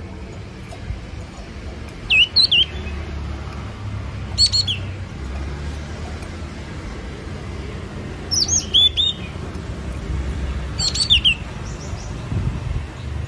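Yellow-cheeked tit calling: four short bursts of quick, high chirps, each burst a few notes, spaced a few seconds apart, over a low steady rumble.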